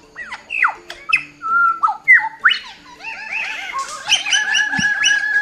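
Bird calls: a string of sharp whistled notes, mostly sweeping down in pitch, then a quick run of repeated notes about four seconds in. Soft background music plays under them.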